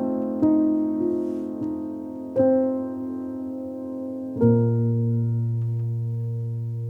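Slow, gentle piano music: a few single notes, then a low chord about four and a half seconds in that rings on and slowly fades.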